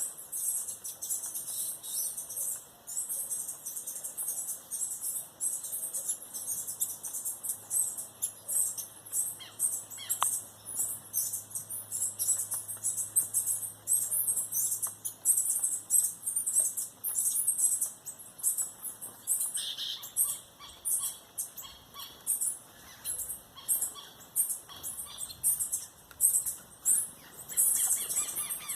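Wild birds chirping at a feeder: a steady, dense run of rapid high-pitched calls, with a few lower, fuller calls near the middle and the end.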